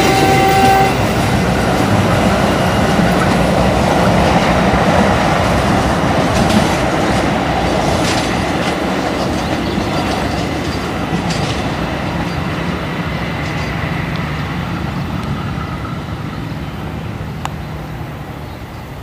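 Passenger train passing close and running away over station switches: wheels clacking over the points and rail joints, with a brief squeal near the start, the noise fading steadily.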